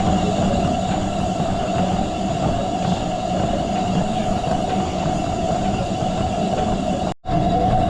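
Treadmill running steadily, its motor and belt giving a constant hum, with a brief cut-out about seven seconds in.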